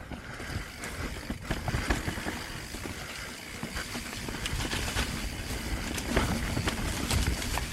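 Mountain bike rolling over a rough dirt and rock trail: steady tyre noise with many small rattling clicks over a low rumble, getting a little louder.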